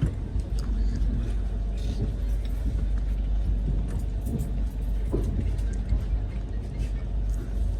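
Steady low rumble of a moving passenger train, heard from inside the coach, with a few scattered clicks.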